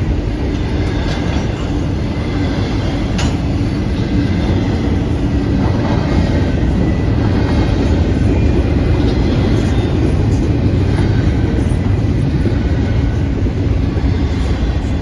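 A train passing close by: a steady, loud rumble of its wheels on the rails.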